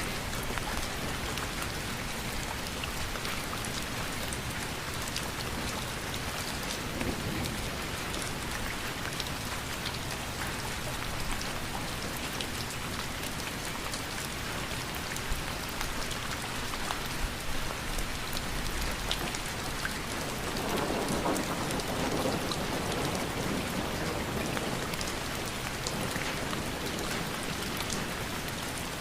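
Steady rain pattering, with scattered sharper drop ticks, and a broader swell in the lower sounds about two-thirds of the way through.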